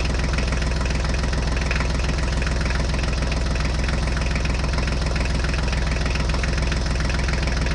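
A tractor engine idling steadily at a low, even pitch. It comes in abruptly right at the start and holds unchanged.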